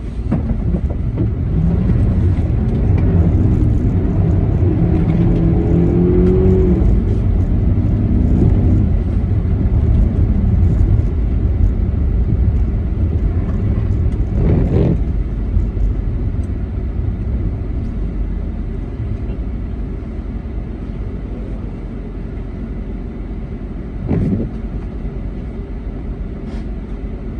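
2009 Jeep Commander's 5.7 Hemi V8 revving under heavy throttle, its pitch climbing over the first several seconds, then settling to a lower, steady drone. Two brief sharp sounds break through later on.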